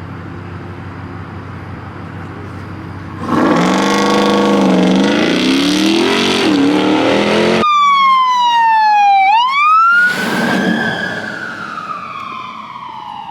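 A car engine running, then revving up and down for about four seconds. It cuts off abruptly and a siren wails in its place, its pitch dropping, then rising and slowly falling, with a short burst of noise about ten seconds in.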